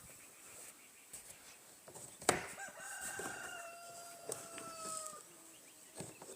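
A rooster crows once: one long call, falling slightly in pitch, lasting nearly three seconds. Just before it, about two seconds in, there is a single sharp knock.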